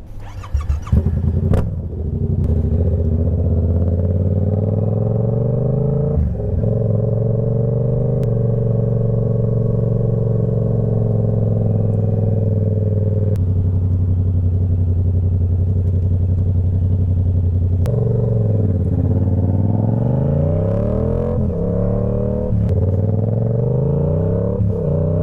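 Motorcycle engine running under way, with a few short sharp bursts at the start. It then holds a steady speed with slow changes in pitch. Near the end the pitch repeatedly drops and climbs again as the bike shifts up through the gears and accelerates.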